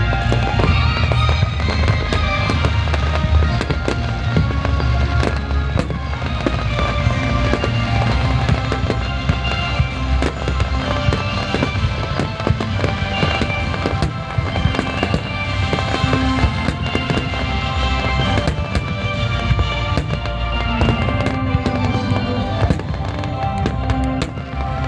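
Daytime fireworks going off in a rapid, continuous string of sharp bangs and crackles, over music with held tones.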